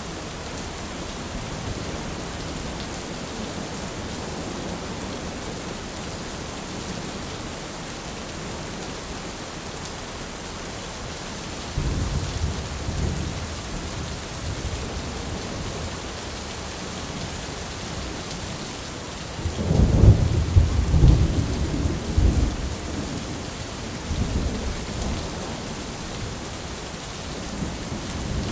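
Thunderstorm: steady heavy rain, with a sudden low rumble of thunder about twelve seconds in and a louder, longer roll of thunder about two-thirds of the way through.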